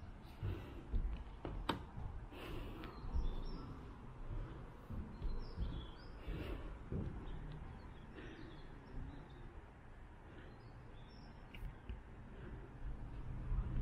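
Outdoor ambience: small birds chirping now and then, short high calls, over a low uneven background rumble, with one sharp click a little under two seconds in.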